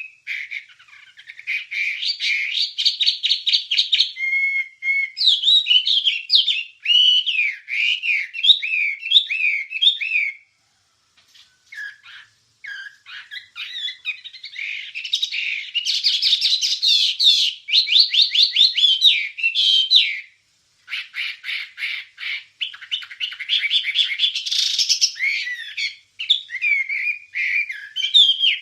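Wambie songbird singing, a fast run of high chirps, trills and rapid repeated notes, broken by a pause of a few seconds about ten seconds in and a brief one about twenty seconds in.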